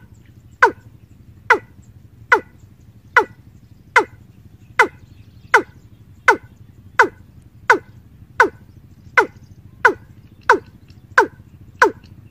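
Bird call: a short, sharp note that drops steeply in pitch, repeated at an even pace about every three-quarters of a second.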